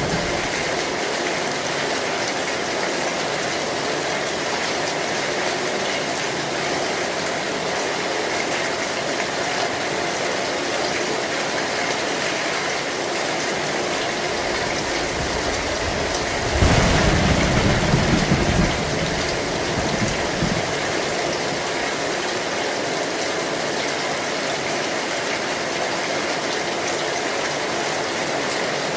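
Heavy rain drumming steadily on an old metal zinc roof. About two-thirds of the way in, a short low rumble of thunder swells for a couple of seconds.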